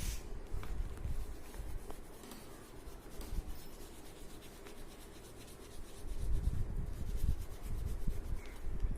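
Wax crayon rubbing back and forth on paper while a drawing is coloured in. The strokes ease off in the middle and pick up again about six seconds in.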